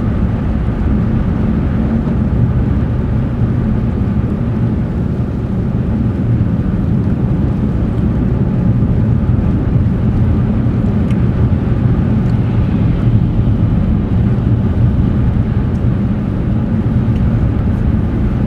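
Steady low rumble of a car driving along an interstate, heard from inside the cabin: engine and tyre noise on the road with no change throughout.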